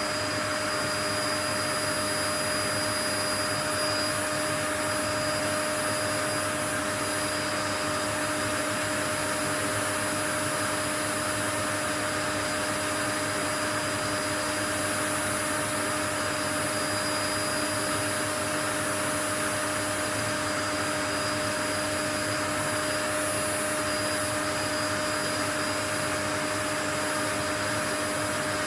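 A continuous white-noise track: an even, unchanging rushing hiss with a few steady faint tones running through it.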